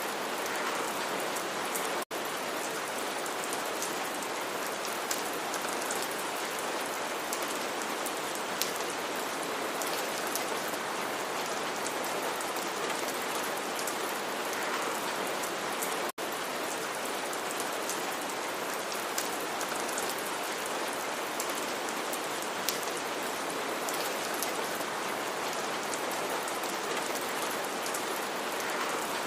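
Steady rain falling on a surface, a dense even patter of drops. The sound cuts out for an instant twice, about two seconds in and again about halfway through.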